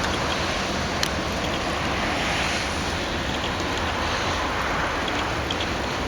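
Freight train rolling past: a steady rushing noise of wheels on the rails, with a faint sharp click about a second in.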